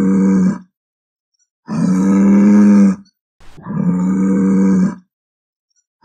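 A bovine mooing in long, low, steady-pitched calls. The end of one call is heard, then two full calls of about a second and a half each with a second's gap between them, with a short click just before the second. A new call begins right at the end.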